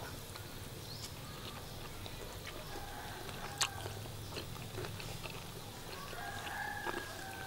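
A person chewing a mouthful of cooked pork intestine, with soft wet mouth clicks and one sharp click about three and a half seconds in. A bird calls in the background twice, a short call about three seconds in and a longer drawn-out one near the end.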